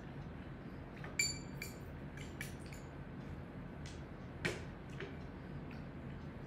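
Eating utensils clinking against dishes: one sharp, ringing clink about a second in, a louder click near the middle, and a few light taps, over steady low room noise.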